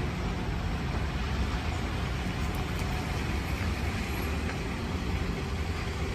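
Steady engine and road noise of a moving road vehicle, with a heavy low rumble.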